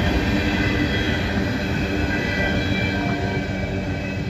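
Freight cars fitted with rotary couplers rolling past on steel wheels: a steady rumble of wheels on rail with thin, steady high tones above it.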